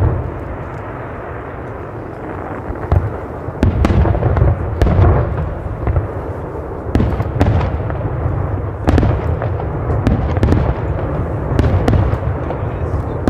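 Fireworks display: a dense, continuous barrage of shell bursts heavy in the bass, with frequent sharper individual bangs and crackles throughout.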